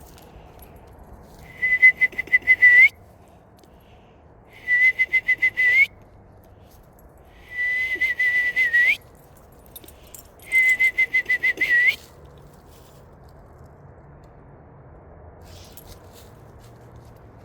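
A person whistling an imitation of an eastern screech owl's trill: four quavering, pulsed whistles on one pitch, each about a second and a half long, ending with a slight upward flick, about three seconds apart.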